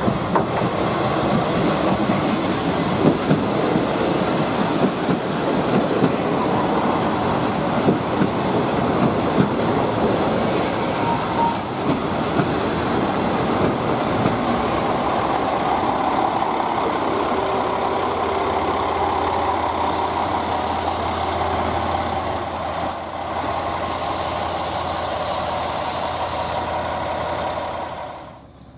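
A railway train running on the track: a steady rumble of wheels on rail with scattered clicks over the rail joints. In the later part, thin high wheel squeal comes in.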